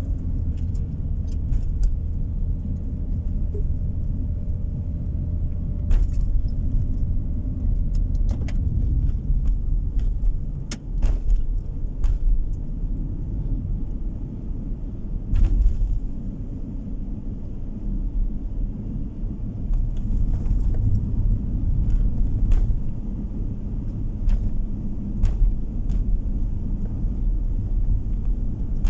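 Steady low road and engine rumble inside a moving car's cabin, with small rattles and clicks now and then.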